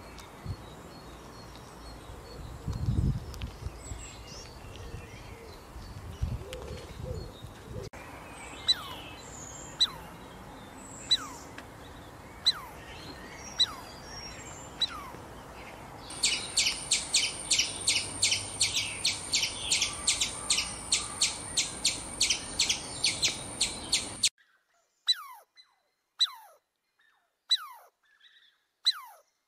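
Birds calling: short chirps that slide down in pitch, about one a second, then a fast run of high repeated notes, about four a second, lasting some eight seconds, over a soft outdoor hush with a low thump about three seconds in. Near the end the hush drops out and only the falling chirps go on.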